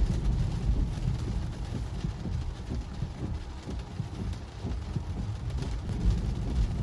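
Cabin noise of a Tesla driving on a wet road in the rain: a steady low road rumble with tyre and rain noise and faint ticks of rain on the car.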